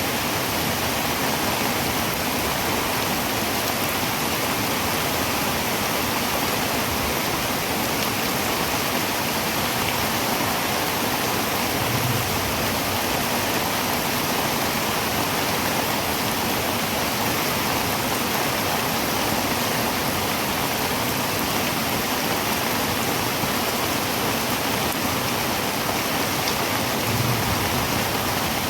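Heavy rain falling on a tin roof: a dense, steady hiss that stays at an even level throughout.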